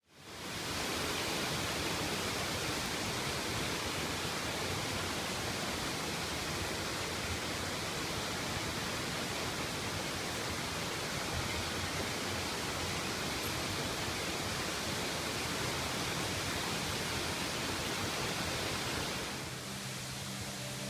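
Steady rushing noise of falling water, fading in at the start and easing off slightly near the end.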